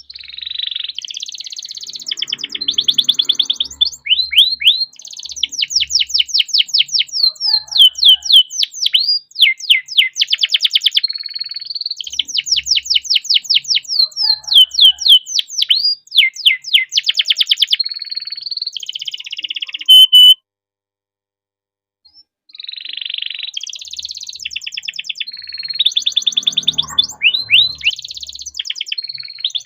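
Domestic canary singing a long, loud rolling song of rapid trills and fast repeated notes. About twenty seconds in there is a sharp click, the song stops for about two seconds, then it resumes.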